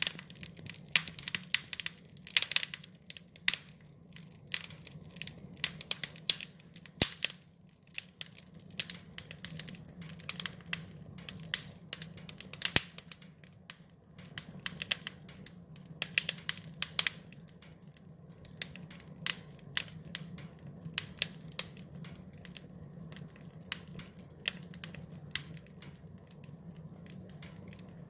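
Wood fire crackling: irregular sharp pops and snaps, sometimes several in a second, over a steady low hum.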